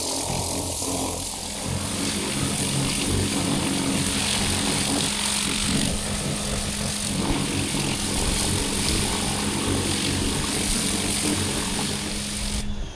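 Wall-mounted pressure washer running: its motor-pump hums steadily under the hiss of the water jet spraying, then shuts off sharply near the end.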